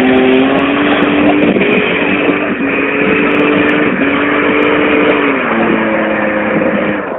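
SUV engine revving hard under load as it climbs a steep rocky dirt track, held at high revs with the pitch stepping down and back up a few times.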